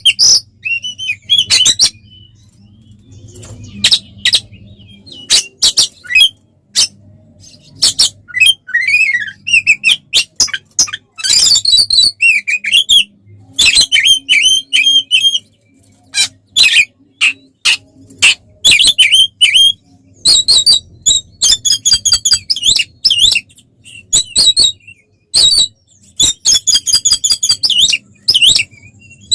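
Oriental magpie-robin singing loudly in fast, varied phrases of sweeping whistles, harsh chattering notes and rapid repeated trills, with short pauses between bursts. This is the agitated fighting song that keepers play to provoke other magpie-robins.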